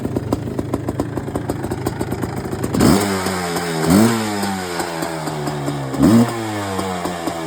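1987 Suzuki LT500R Quadzilla's freshly refurbished two-stroke single-cylinder engine idling with an uneven firing beat, then blipped three times, each blip a quick rise in revs that falls back slowly.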